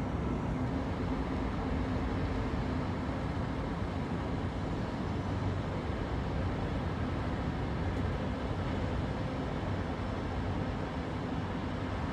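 A large engine or heavy machinery running steadily with a low hum; a higher humming tone fades out about three seconds in.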